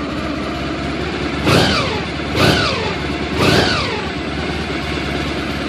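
Honda ST1100's V4 engine idling and blipped three times with the throttle, each rev rising and falling cleanly back to a steady idle, the engine now warmed up.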